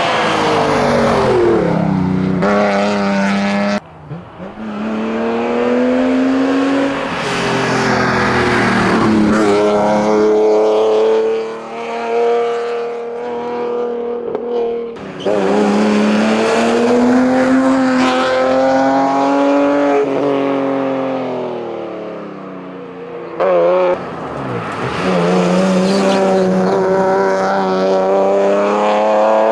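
Hillclimb racing cars at full throttle: mainly a BMW 325i's straight-six accelerating hard, its engine note climbing and dropping back at each upshift. The sound cuts abruptly several times, first about four seconds in, where the end of a BMW 316i's run gives way to the 325i.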